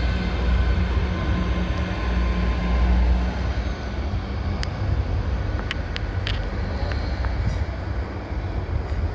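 Diesel train running at the platform. Its low engine hum drops away about three and a half seconds in, followed by scattered sharp clicks and knocks.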